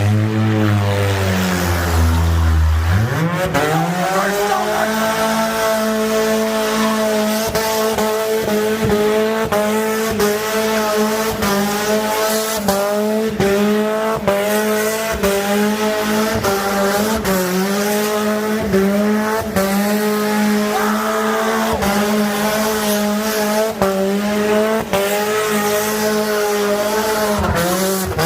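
Honda Accord VTEC four-cylinder with an open exhaust revving up sharply about three seconds in, then held high on the rev limiter, its note wavering and cutting out briefly again and again, with tyres squealing in a burnout.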